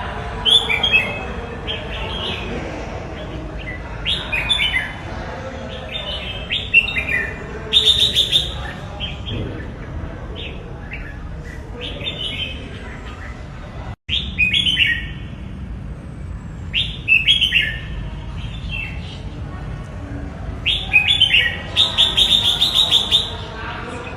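Red-whiskered bulbul singing: short, quick phrases of clear notes repeated every second or two, with a longer fast run of notes near the end. There is a momentary cut in the sound about halfway through.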